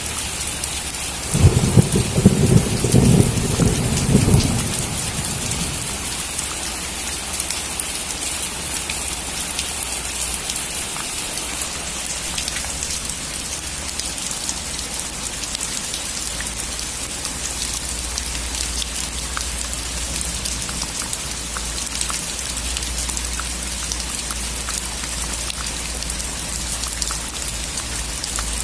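Steady heavy rain hissing, with a loud rumble of thunder starting about a second and a half in that lasts about three seconds and then dies away.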